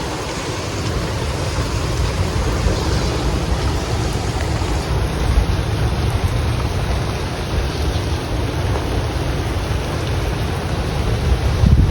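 Storm wind and heavy rain, with the wind buffeting the microphone in a low rumble. The rumble swells briefly near the end.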